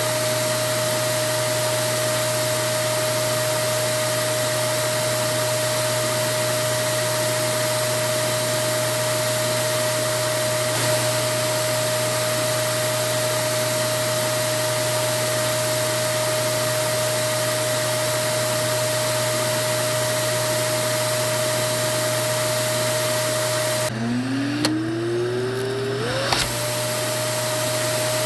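Vacuum cleaner running steadily: a rush of air with a constant motor whine. About three-quarters of the way through, the air noise briefly falls away and the whine drops low, then climbs back up in pitch as the motor spins up again to its steady running note.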